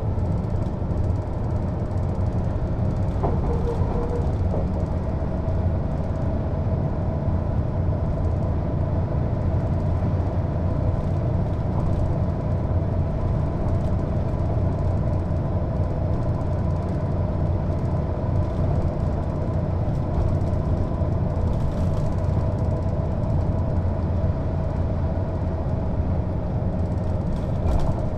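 Mercedes-Benz O 407 city bus's diesel engine and driveline running at a steady speed: a deep, even drone under a steady whine.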